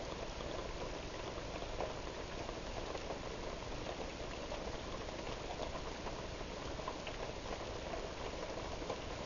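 Heavy rain falling in a steady downpour, a dense hiss of drops with many small close patters and drips.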